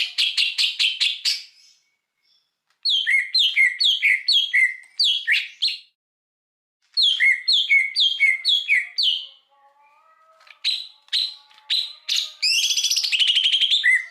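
Songbird song in separate phrases: a fast rattling run of notes at the start, then two runs of repeated downward-slurred whistled notes with a pause between them, and near the end a few sharp single notes leading into a harsh buzzy trill.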